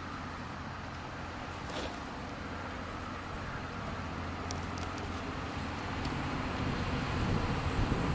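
Outdoor background rumble like distant road traffic, steady with a few faint clicks, slowly growing louder toward the end.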